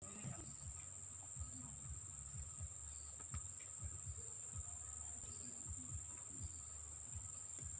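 Steady high-pitched insect trilling, with irregular low muffled thumps and rumble on the microphone.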